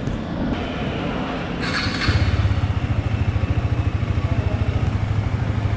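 KTM Duke 250's single-cylinder engine is started on the electric starter: a brief crank about one and a half seconds in, then it catches and idles with an even, rapid low beat. This is the first start after its kill switch assembly was replaced.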